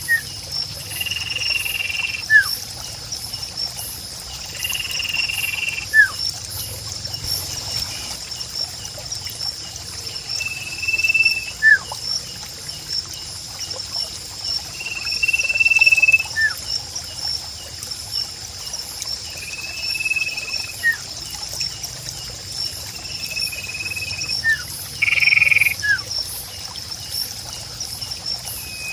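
Natural ambience: a steady high insect trill, with short repeated animal calls and brief falling whistles every few seconds over a faint trickle of water.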